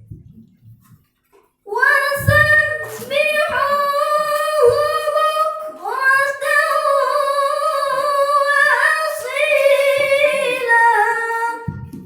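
A woman reciting the Quran in the melodic tilawah style, drawing out one long, ornamented phrase on a high, wavering pitch. It starts about a second and a half in and runs for about ten seconds.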